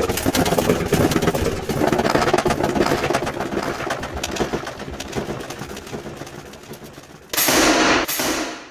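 Wood fire crackling in a campfire stand: a dense run of sharp snaps that slowly fades, then a brief loud rushing noise near the end.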